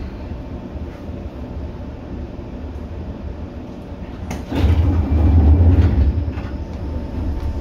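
Seibu 2000 series electric train running, heard from inside the car: a steady rumble of wheels on rail. About four and a half seconds in, a sudden louder rush with a heavy low roar lasts about two seconds, then eases back.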